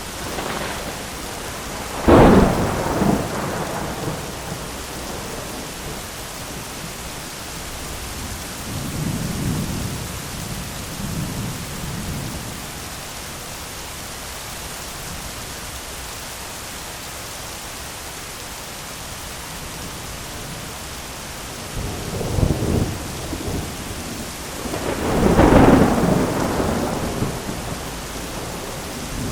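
Steady heavy rain falling on an umbrella, with thunder: a loud sharp clap about two seconds in, low rumbles around the middle, and a strong clap and long roll near the end.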